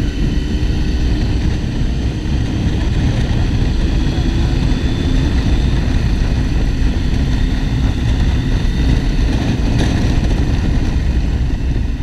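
Motorcycle running at a steady cruise with heavy wind rush over the microphone.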